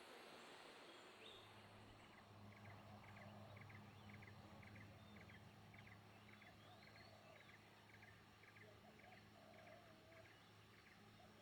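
Very faint animal calls: a short note repeated regularly, about one and a half a second, with a few softer chirps, over a quiet steady low hum.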